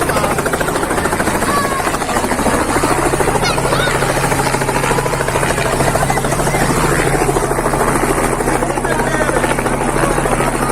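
Helicopter running steadily and loudly overhead, its rotor beating in a rapid, even chop over the engine's whine.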